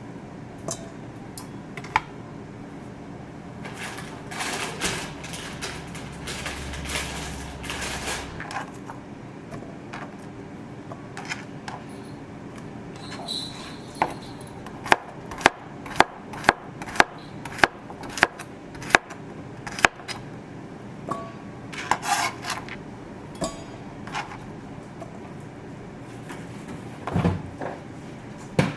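Kitchen work sounds: scattered clinks and knocks of utensils and dishes, with a few seconds of rushing noise early on. Partway through comes a run of about ten sharp, evenly spaced knocks, about two a second.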